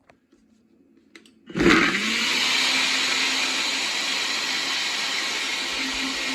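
Blender switched on about a second and a half in, its motor spinning up and then running steadily as it blends a green smoothie of spinach, fruit and coconut water. A few faint clicks come before it starts.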